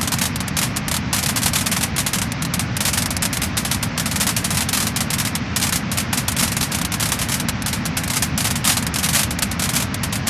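Wood-burning fire crackling and popping: a dense, irregular run of sharp crackles over a steady low rumble of flame.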